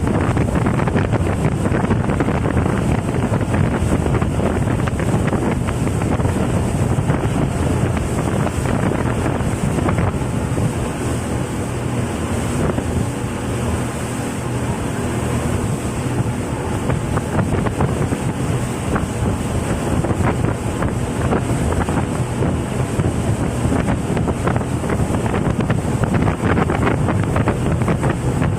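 Heavy wind buffeting the microphone and rushing water during a banana-boat ride towed at speed, with the steady drone of the towing motorboat's engine beneath.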